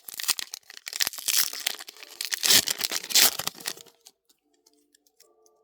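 Trading-card booster pack wrapper being torn open and crinkled for about four seconds, then stopping. Faint music follows.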